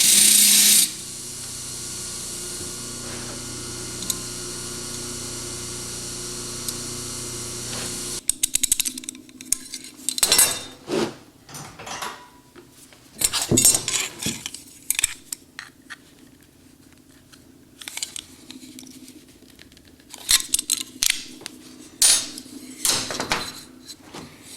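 A bench power tool motor runs with a steady hum and shuts off about eight seconds in. After that come irregular clinks and knocks of small steel parts being handled and set down on a metal surface.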